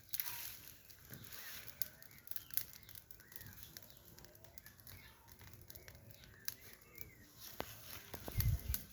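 Wood fire of dry twigs and logs crackling with scattered sharp pops, while domestic fowl call faintly in the background. A low bump sounds near the end.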